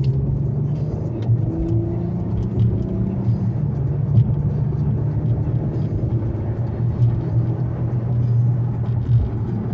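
Infiniti Q70 cruising, its engine giving a steady low drone over road noise.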